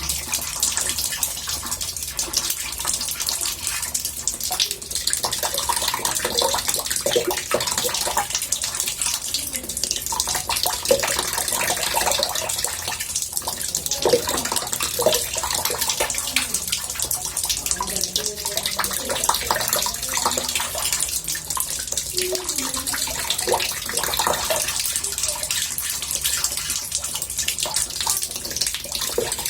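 Water pouring from a tap into a bathtub, a steady rushing splash with bubbling and gurgling where the stream hits the water.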